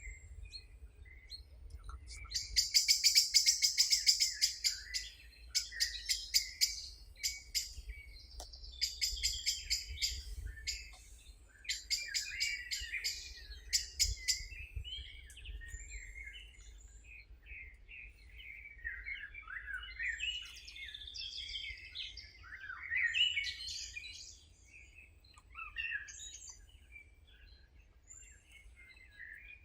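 Several songbirds singing: fast high-pitched trills and twitters in repeated phrases during the first half, then looser chirps and warbling phrases.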